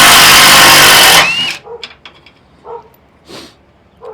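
Loud power tool running flat out, then cutting off about a second in, followed by a brief squeak and a few faint clicks.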